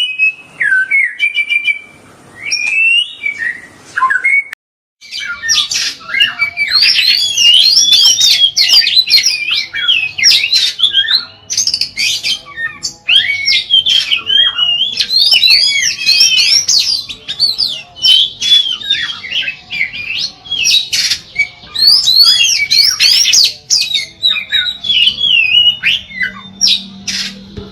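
Oriental magpie-robin (kacer) singing: a few slow, separate whistled notes, a short break about five seconds in, then a long, unbroken run of fast, varied sweeping whistles.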